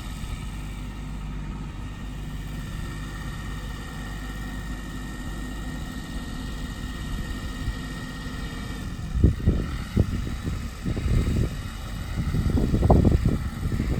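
Farm tractor engine running steadily at low revs, with a few louder bursts of low rumbling in the second half.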